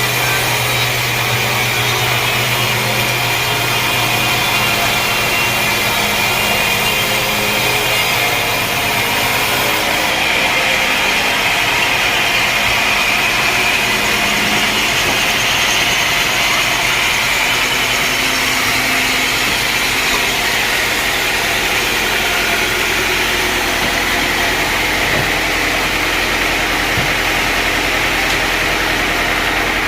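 Sawmill machinery running steadily and loudly. A low hum drops out about ten seconds in.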